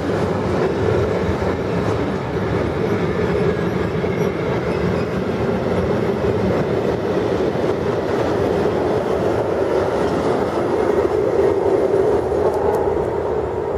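Freight train of covered sliding-wall wagons rolling past at speed close by: a steady, loud rumble of steel wheels on rail.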